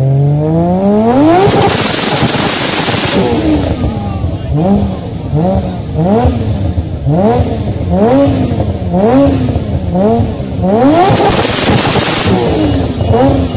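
A Toyota 86-type coupe's flat-four engine revved hard from idle. It climbs quickly to high revs with a loud rush of exhaust noise at the top, then gives a quick run of rev blips, about one and a half a second, and a second long high rev near the end.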